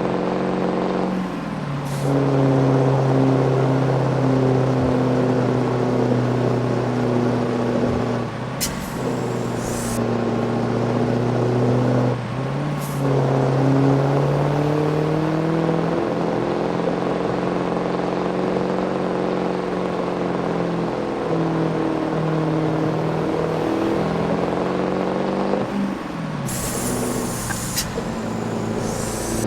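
Scania V8 diesel truck engine with a straight-through exhaust running loud and steady; its pitch dips and climbs back several times, and there are two short bursts of hissing air.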